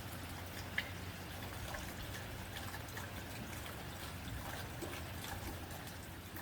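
Rain falling on a tin roof: a steady patter with many small drop ticks scattered through it, one sharper tick about a second in.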